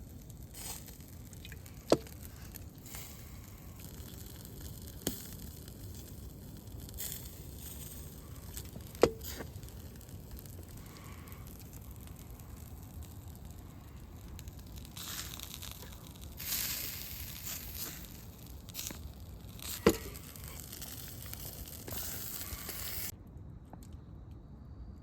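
Wood campfire crackling, with a few sharp loud pops and stretches of hissing; the hiss drops away near the end.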